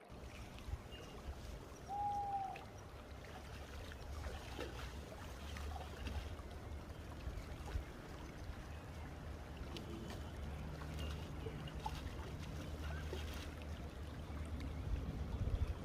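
Faint outdoor ambience: a steady low rumble with scattered small ticks, and one short chirp-like call about two seconds in.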